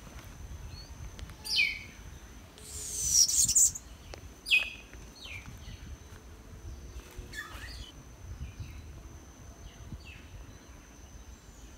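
Forest birds calling: a scattering of short, high chirps that slide downward, with a louder, harsher call about three seconds in and another sharp one about four and a half seconds in.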